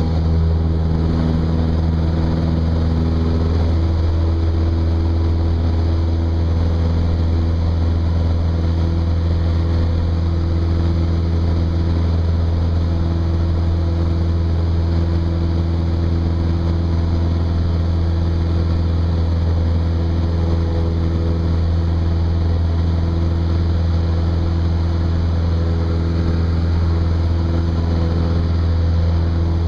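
Cessna 172's piston engine and propeller droning steadily, a low even hum whose pitch shifts slightly around four and twelve seconds in.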